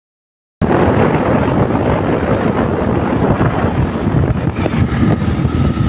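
Loud wind buffeting the microphone, a dense low rumbling noise that starts abruptly about half a second in.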